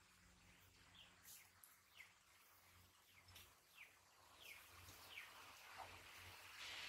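Near silence: faint ambient noise with scattered short bird chirps that fall in pitch, several in a row.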